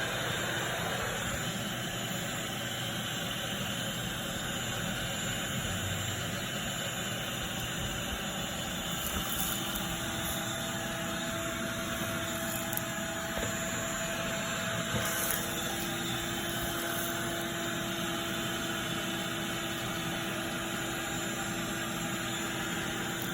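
Steady machine drone: an even rushing noise with a constant hum through it, holding level throughout, with a few faint clicks about nine and fifteen seconds in.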